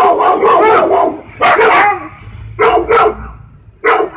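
A dog barking repeatedly: a fast run of barks in the first second, then single and paired barks about a second apart.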